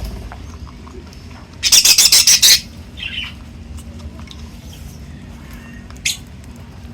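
A bird squawking: a loud, harsh run of rapid squawks about a second and a half in, a shorter call just after, and one more brief squawk near the end, with faint chirps between.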